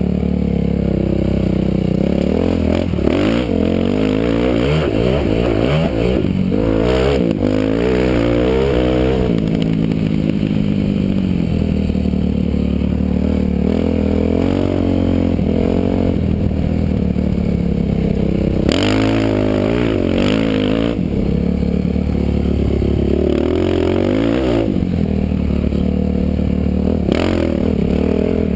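Motocross dirt bike engine heard from a helmet camera, revving up and dropping back again and again as the rider works the throttle and gears around the track, with a few short rushes of noise along the way.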